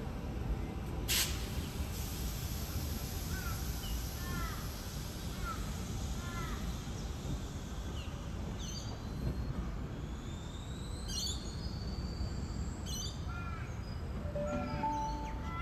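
Steady low rumble of an electric suburban train, a Tangara set, rolling slowly into the station. Over it a bird calls again and again in short hooked notes, and about ten seconds in a faint rising whine is heard.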